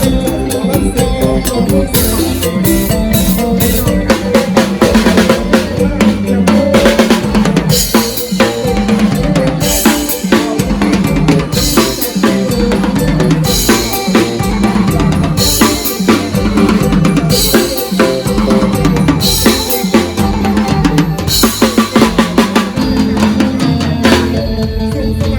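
A drum kit played live with bass drum and snare in a steady mor lam groove over a band's bass line. From about eight seconds in, cymbal crashes land about every two seconds.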